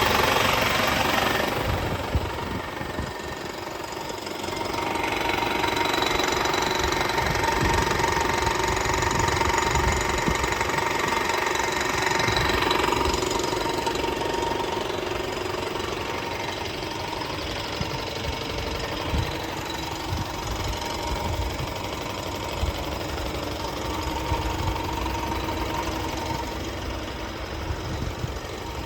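Renault D 10.210 truck's 5.1-litre four-cylinder inline diesel engine running. It is louder for the first two seconds and again from about five to thirteen seconds in, then steadier and somewhat quieter.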